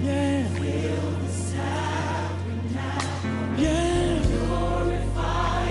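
Gospel music with a choir singing long held notes over a steady bass line, which moves to a new note a little over halfway through.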